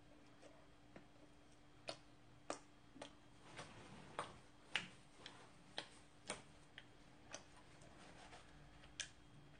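Near silence with faint, close clicks of chewing, about two a second, over a low steady hum.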